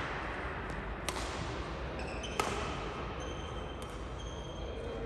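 Badminton rally in a sports hall: sharp smacks of rackets striking the shuttlecock about every one to one and a half seconds, over the hall's steady background noise.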